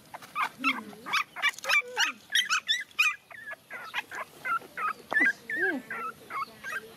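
Young puppies crying, a quick run of short, high-pitched whimpers and yelps several times a second, with longer wavering cries in the second half: crying for their absent mother.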